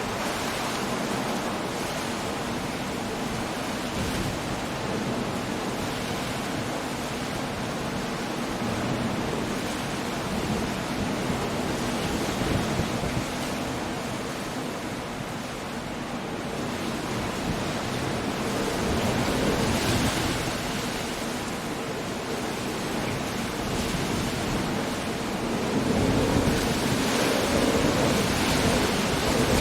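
Coastal storm: surf breaking with wind and rain in a continuous rush of noise, swelling louder about two-thirds of the way through and again near the end.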